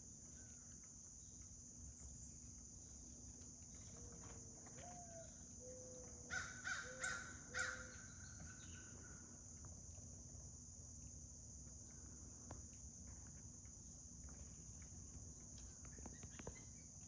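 Blue jay giving four harsh calls in quick succession about six to eight seconds in, over a steady high drone of insects.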